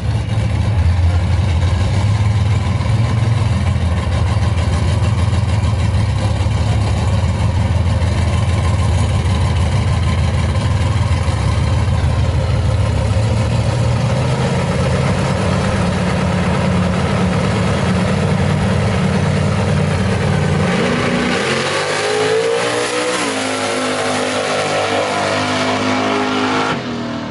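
Fox-body Ford Mustang drag car's engine running loud with a steady low note at the starting line, the pitch creeping up partway through. About 21 seconds in it launches and accelerates away, the pitch climbing in a series of steps.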